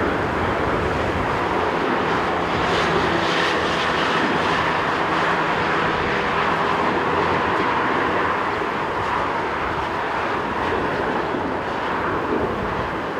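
Jet airliner's engines, a steady roar with faint humming tones that eases a little near the end.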